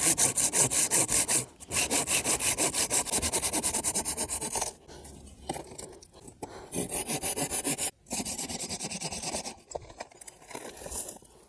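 Hand saw cutting through hard wood in quick, even back-and-forth strokes, in several runs of strokes broken by short pauses.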